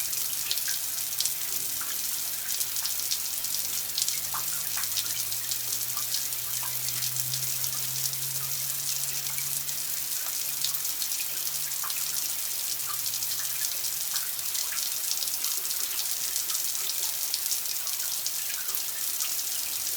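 Steady running water, a continuous splashing hiss dotted with small drip-like ticks. A faint low hum underneath dies away about two-thirds of the way through.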